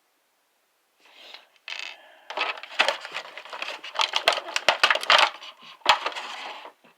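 Small hard plastic action-figure parts being handled, clicking and rattling against each other and their packaging. The sound starts about a second in and includes several sharp knocks between about four and six seconds in.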